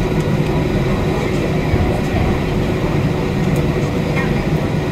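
Steady low rumble of cabin noise inside an Airbus A320 on the ground with its engines running, with a faint steady hum over it.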